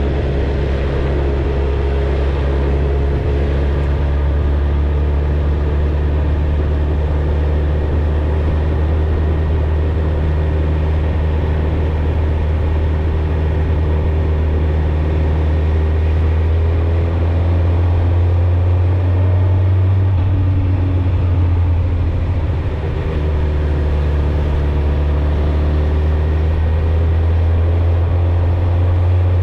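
Suzuki GSX-R1000 inline-four engine and exhaust running steadily at a cruise, its pitch drifting only slightly up and down. There is a short dip in level about three quarters of the way through.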